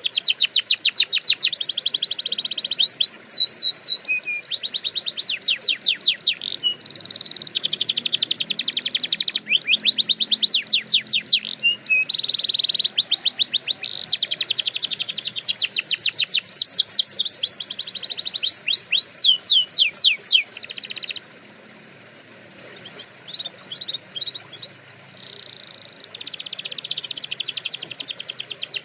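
Domestic canary singing: fast trills of repeated high notes in phrases that change every second or two. About two-thirds of the way through it drops to scattered single notes, and the trills resume near the end.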